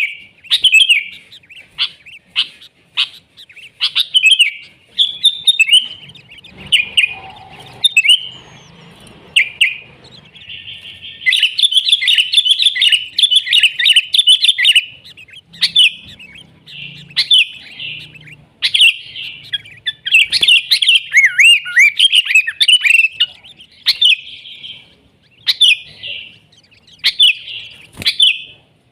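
Sooty-headed bulbul (kutilang) singing: short lively chirping phrases, with long runs of dense chattering song about ten seconds in and again near twenty seconds.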